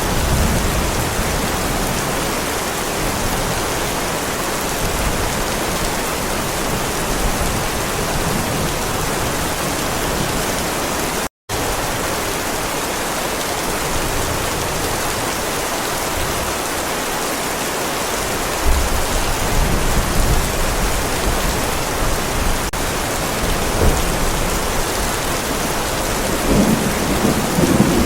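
Heavy rain pouring steadily onto a paved driveway. Low thunder rumbles in the second half, swelling near the end. The sound cuts out for an instant about eleven seconds in.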